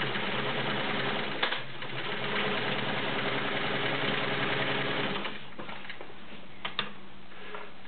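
Vintage Kenmore 1750 all-steel sewing machine running steadily for about five seconds, sewing with the zigzag cam fitted, then stopping. A few short clicks follow.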